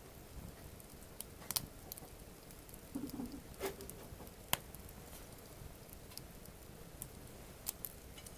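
Wood campfire crackling, with irregular sharp pops of burning wood, the loudest about four and a half seconds in.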